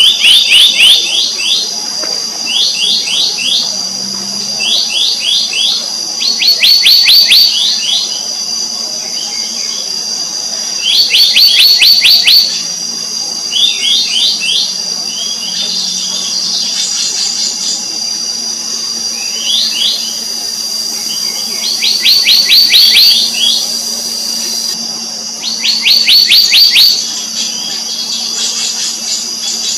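Black-naped monarch calling in short runs of rapid, rising ringing notes, about a dozen runs a few seconds apart, over a steady high drone of insects.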